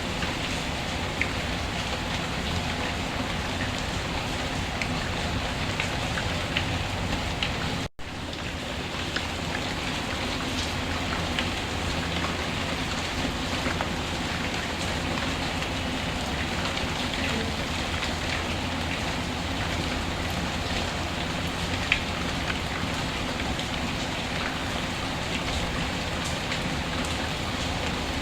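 Steady rain falling, with the occasional small crackle and pop of a wood fire in a fireplace. The sound cuts out for an instant about eight seconds in, then resumes.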